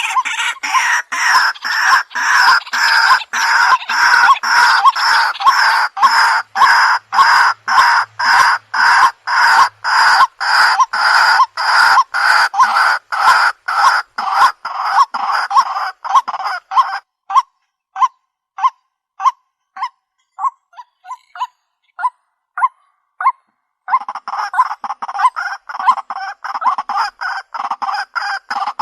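White-breasted waterhen calls from a mixed lure recording used for bird trapping: a fast, loud run of short, repeated, harsh notes, about three or four a second. About two-thirds of the way through they thin to sparse single notes, then the dense calling resumes near the end.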